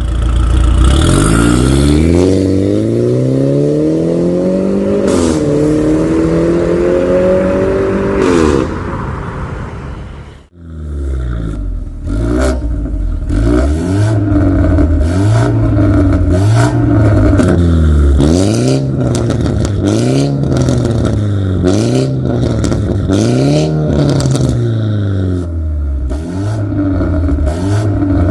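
BMW 320i's B48 2.0-litre turbocharged four-cylinder sounding through a full-system stainless valved aftermarket exhaust. For about eight seconds it climbs steadily in pitch, with a brief dip about five seconds in. After a short break it is revved in a string of quick blips, roughly one every second and a half, with sharp clicks in between.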